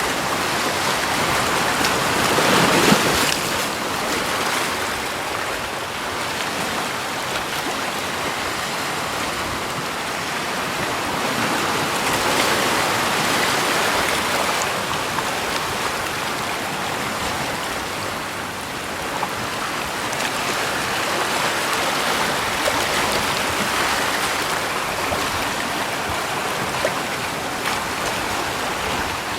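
Steady rush of flowing water, swelling a little about three seconds in and again around twelve to fourteen seconds in.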